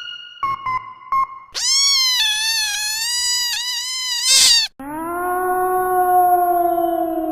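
A string of short meme sound clips. Brief electronic beeps come first, then a long, wavering cat meow for about three seconds. From about five seconds in there is a steady low droning tone that rises slightly as it starts.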